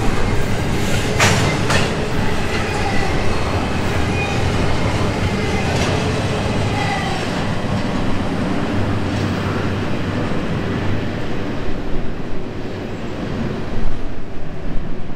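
Double-stack intermodal container cars rolling past: a steady rumble of steel wheels on rail, with a couple of sharp clicks about a second in.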